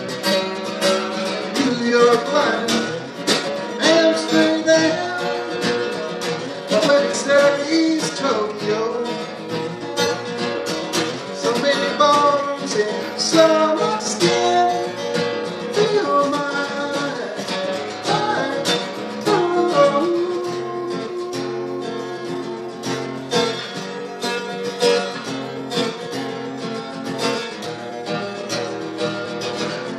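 Acoustic guitar strummed in a steady rhythm, with sustained chords and moving melody notes, playing a folk song.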